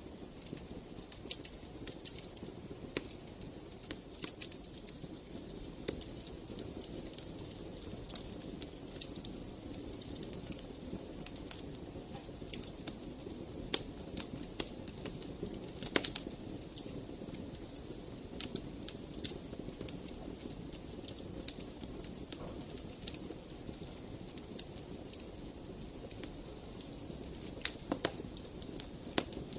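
Wood fire in a fireplace crackling, with a steady low rumble of the flames and irregular sharp pops, the loudest about halfway through.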